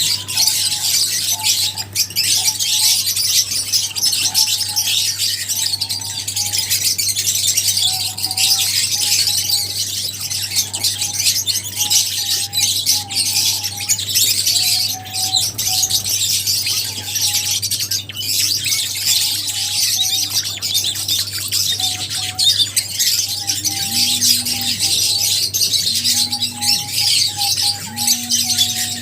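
A flock of lovebirds chattering loudly and without a break, many shrill chirps and squawks overlapping. A steady low hum runs underneath.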